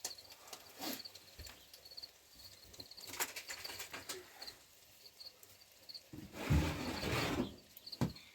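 Small birds chirping, short high notes repeating on and off, with scattered clicks and a louder rustling noise for about a second and a half near the end.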